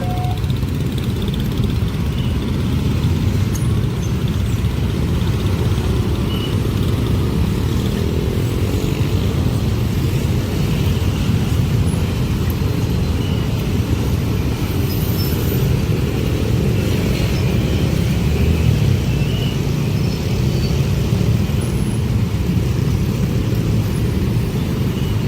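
A train passing at the crossing: the wheels and carriages give a steady, loud rumble that holds evenly throughout.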